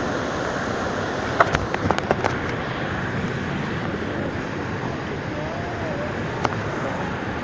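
Steady rushing of a waterfall and river, loud and even throughout. A few sharp clicks or knocks stand out about one and a half to two seconds in, and once more near the end.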